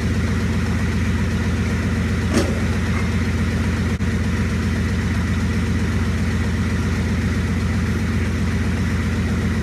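1985 Ford F-350's 6.9-litre IDI V8 diesel idling steadily, still cold just after a boosted start, with an even low rumble. A brief tick sounds about two and a half seconds in.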